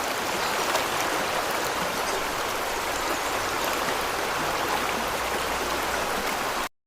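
Steady rush of running water, like a stream, which cuts off abruptly near the end.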